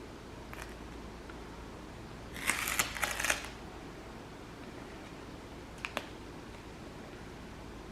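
Brief crackling rustle of a vinyl decal being handled on a plastic dirt bike side panel, about a second long, with a light double click a few seconds later.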